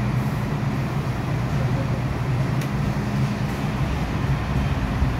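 Steady low hum inside an MTR M-Train carriage standing at the platform, from the train's onboard equipment, with a faint click about halfway through.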